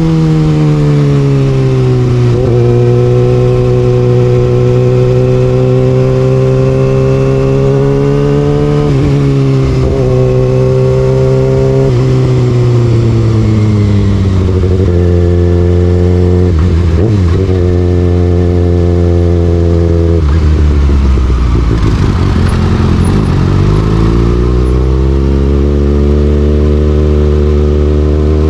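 Kawasaki Ninja ZX6R's inline-four running through an Austin Racing aftermarket exhaust while being ridden, its pitch rising and falling with throttle and gear changes. Revs drop low about three-quarters of the way through, then climb again near the end.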